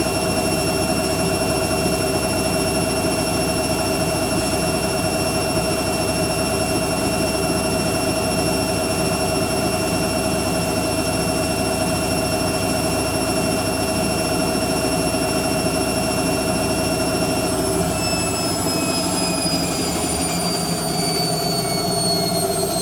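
Hoover Quattro AE130 washing machine spinning its drum at high speed: a steady motor whine with several high tones over a rushing hum. About 18 seconds in the whine starts falling in pitch as the spin winds down.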